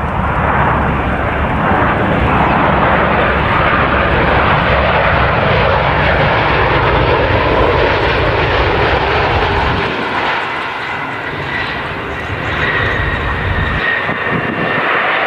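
Jet engines of a Boeing 737 running loud during a flapless emergency landing, a dense steady rush with deep rumble. A thin high whine joins in near the end.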